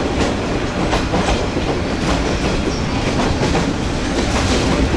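Passenger train running along the track, with steady rumble and irregular clattering of wheels and rattling carriages, heard close through an open window.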